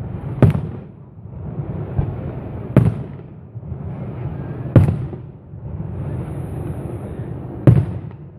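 Fireworks shells bursting in the air: five sharp bangs a second or two apart, the last the loudest, with a rolling, crackling rumble between them.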